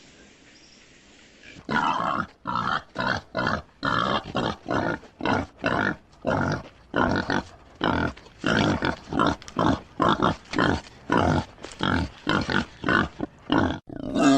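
An animal making a rapid series of short, loud calls, about two a second, beginning a couple of seconds in.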